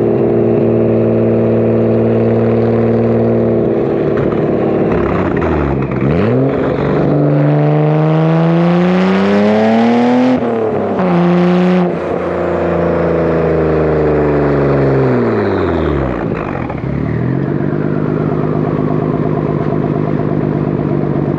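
Nissan Skyline R32 GT-R's RB26DETT twin-turbo straight-six, through a Tomei exhaust. It idles steadily, then is revved up to a peak about ten seconds in, held briefly, and falls back slowly to idle. A thin high whistle glides down as the revs drop.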